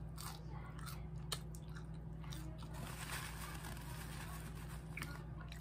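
A person chewing food close to the microphone, with soft crunching and small mouth clicks scattered through, over a steady low hum.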